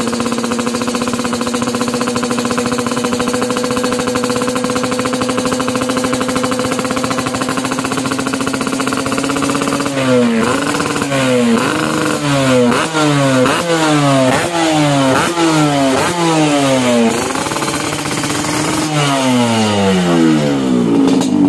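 Yamaha RX-King's 135 cc two-stroke single running at a steady idle, then blipped repeatedly from about halfway through: about ten quick throttle blips in seven seconds, the pitch jumping up and falling back each time, with a few more blips near the end.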